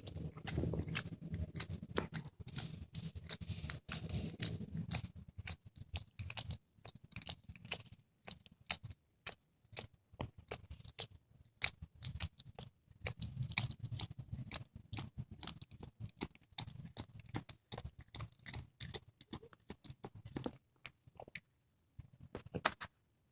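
A cat chewing and crunching through a squirrel: irregular wet clicks and cracks of teeth on flesh and bone, with short pauses and fewer bites near the end. A low purr runs under the chewing in two long stretches.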